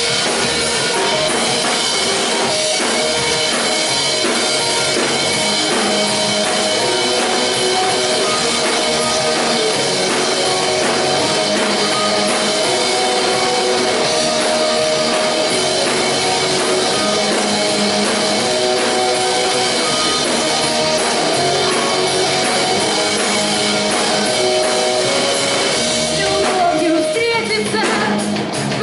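Rock band playing live: drum kit, electric guitar and bass in a steady, loud rock groove.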